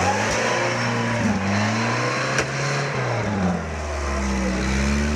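Off-road 4x4 vehicle engine working, its revs rising and falling, with a dip about three and a half seconds in before it holds steady.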